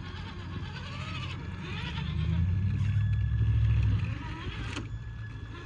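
RC crawler truck driving: a low electric motor and drivetrain hum that swells for a couple of seconds and drops off sharply about four seconds in.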